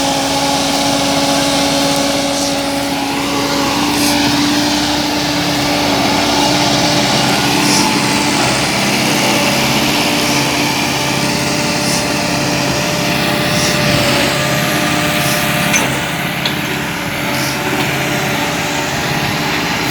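Tractor engine running steadily, its pitch shifting slightly a few times, with a few faint clicks over it.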